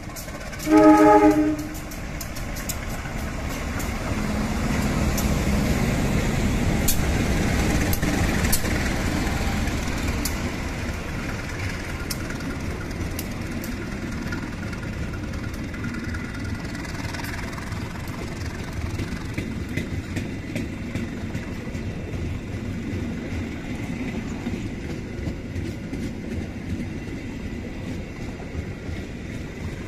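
A passenger train double-headed by two CC 201 diesel-electric locomotives passes close by. A short horn blast sounds about a second in, then the locomotives' engines rumble past, loudest a few seconds later. The coaches follow with steady wheel-on-rail rolling noise and occasional clicks over rail joints.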